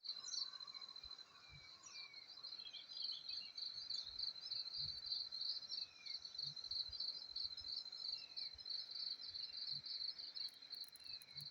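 Insects trilling, a steady high-pitched drone with a quick pulsing chirp over it, and a few short falling bird calls faintly behind.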